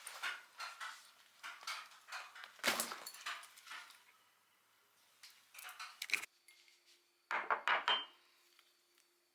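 Small clicks, clinks and knocks of household objects being handled, in a busy run at first, then a few sharp clicks, and a louder cluster of clatters near the end.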